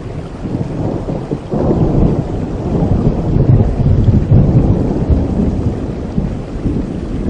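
Thunder rumbling over steady heavy rain. The low roll builds about a second and a half in, is loudest near the middle and slowly dies away.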